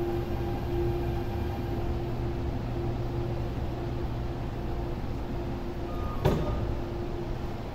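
Steady low hum with a held tone from an MTR Airport Express CAF train standing at the platform behind the screen doors. One sharp clack about six seconds in.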